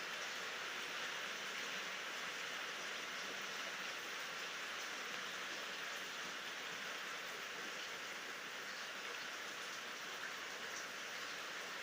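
Steady rainfall, an even hiss of drops on surfaces with no thunder.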